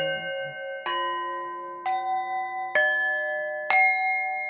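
Background music of bell-like struck notes, like a glockenspiel or chimes: a new chord is struck about once a second and left to ring.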